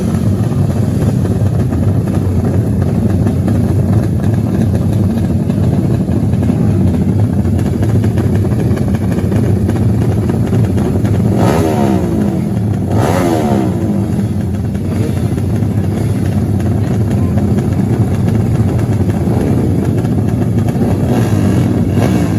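Dirt bike engines running loud and steady, with two bikes passing close about eleven and thirteen seconds in, their pitch sweeping down as they go by.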